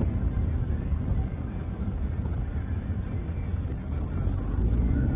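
Steady low rumble of a car on the move, engine and road noise picked up by a dashcam inside the car.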